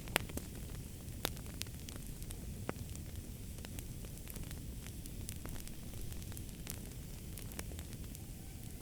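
Wood fire crackling and popping: a steady low rumble of flames with irregular sharp snaps, the loudest just after the start and about a second later.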